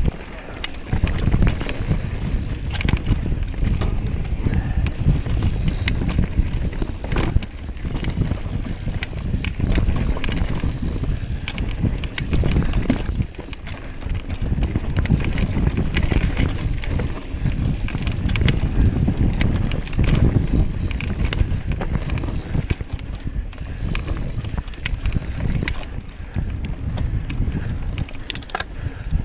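Mountain bike riding over a dirt trail: a constant rumble of tyres and wind on the microphone, with frequent sharp clicks and knocks as the bike rattles over the bumps.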